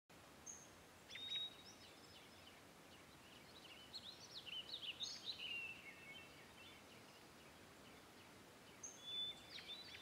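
Faint bird calls over a quiet background hiss. There are a few high chirps and a short whistled call in the first seconds, a busier run of quick chirps in the middle, and a couple more near the end.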